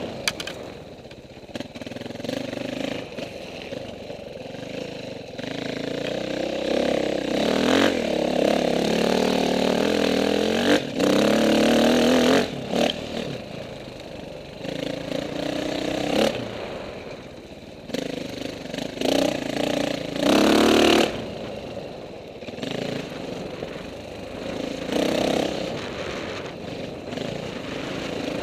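Off-road dirt bike engines revving up and easing off as the bikes ride past, loudest about eight to twelve seconds in and again around twenty seconds in.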